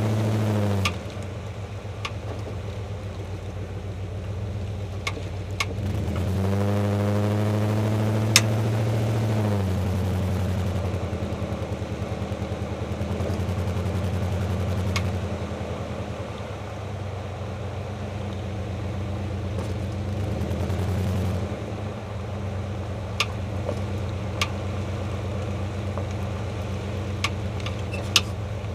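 Jeep WJ Grand Cherokee engine running. It falls back to idle in the first second, is revved up about six seconds in, holds there for about three seconds, then settles back to idle. About ten sharp knocks are scattered through it.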